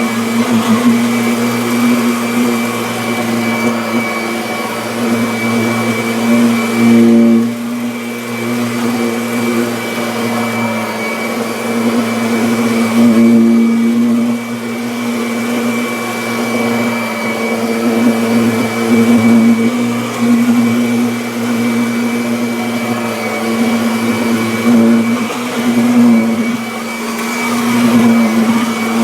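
Kirby Avalir upright vacuum cleaner running on carpet: a steady motor hum with a thin high fan whine, its loudness swelling and dipping every few seconds.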